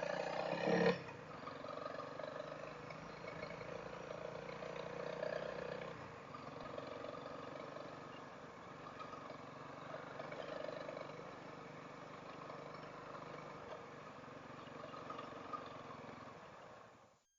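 Dual-sport motorcycle's single-cylinder engine running steadily at low trail speed, its note drifting slightly up and down; it cuts off abruptly near the end.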